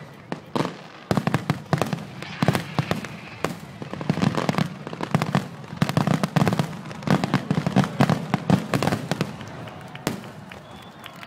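Aerial fireworks shells bursting overhead, many bangs in quick succession that thin out near the end.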